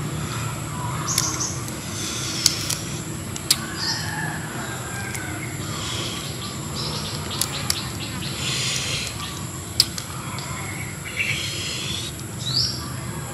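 Birds chirping and calling over a steady high insect drone. A few sharp clicks and smacks from someone chewing stand out over it.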